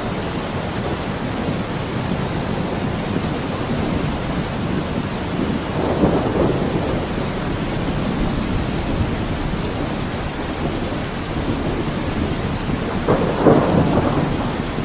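Thunderstorm: steady heavy rain with rolling thunder, one rumble swelling about six seconds in and a louder one near the end.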